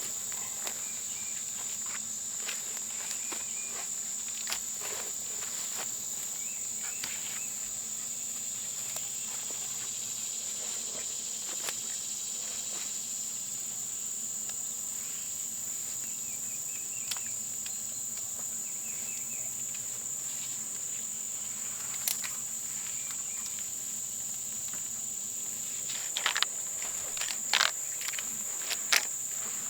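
Insects, cricket-like, trilling on one steady high pitch without a break. Scattered light clicks and crackles run throughout, with a cluster of louder knocks near the end.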